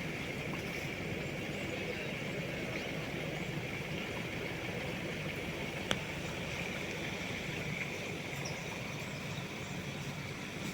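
Steady ambient noise of an Amazon river, with a constant high hiss over a low rumble and a single sharp click about six seconds in.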